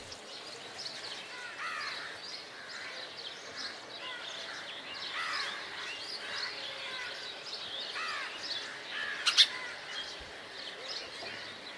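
Many small birds chirping busily, with one sharp click about nine seconds in.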